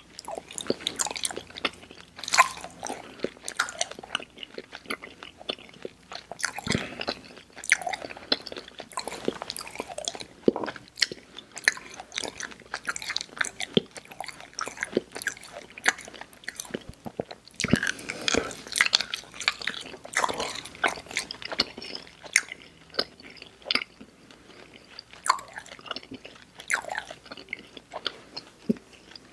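Close-miked mouth sounds of chewing soft, chewy sour candy: irregular wet smacks, clicks and squelches. A few louder bites and smacks stand out, notably around 7 and 18 seconds in.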